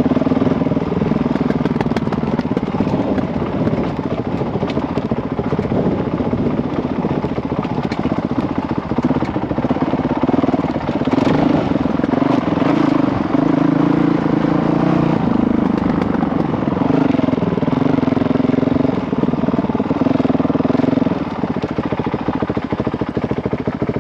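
Honda CRF dirt bike's single-cylinder four-stroke engine running under way on a trail, its pitch rising and falling with the throttle. It gets louder about halfway through and eases off near the end.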